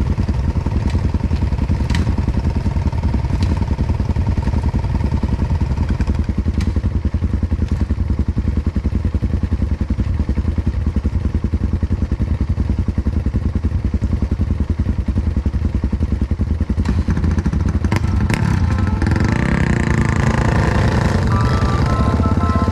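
Off-road motorcycle engine with an open exhaust running steadily, its rapid exhaust pulses loud and even, the sound growing busier near the end.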